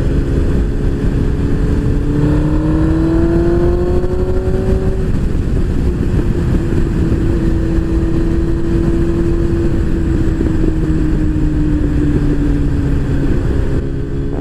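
Motorcycle engine under way with heavy wind rush on the microphone. The revs climb from about two seconds in to about five seconds, then hold steady and ease off a little near the end.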